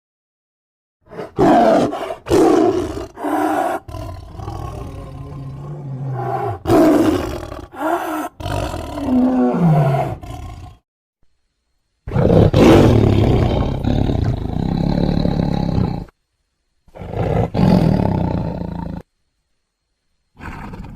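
Tiger-style roars and growls in a series of separate bursts: several short ones, then a longer rumbling growl ending in a falling moan around ten seconds in, then longer roars. Each burst is cut off by a sudden, complete silence.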